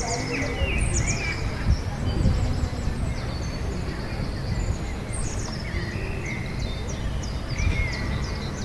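Small birds chirping and singing, with short repeated chirps and trills throughout, over a steady low rumble.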